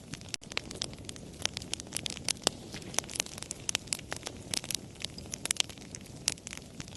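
Campfire crackling: irregular sharp pops and snaps, several a second, over a steady low rush of burning.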